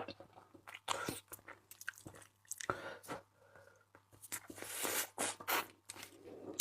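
A person chewing and biting seafood close to the microphone: irregular crunching and short clicks.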